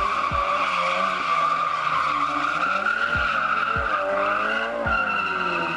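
Car drifting with its tyres squealing steadily and loudly, the engine revving up and down underneath as the driver works the throttle.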